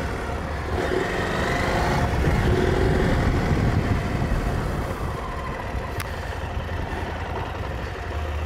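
KTM 890 Adventure R's parallel-twin engine running as the motorcycle is ridden along a gravel track, the engine note rising and falling with the throttle. It grows a little quieter about halfway through, and a single click sounds about six seconds in.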